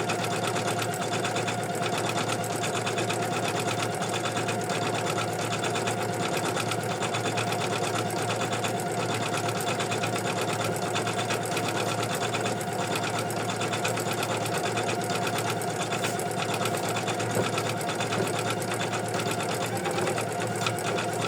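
Embroidery machine stitching out an in-the-hoop design at a steady speed: a fast, even needle rhythm over a constant motor hum.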